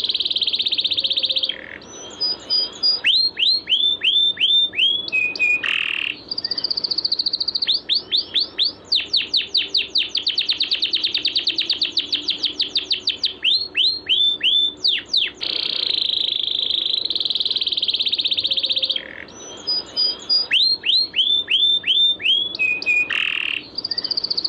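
A songbird's song recording: buzzy high trills alternate with runs of quick arching whistled notes and a long fast rattle of rising notes. The same sequence repeats about every sixteen seconds. This is masteran, bird song played to caged songbirds to get them singing.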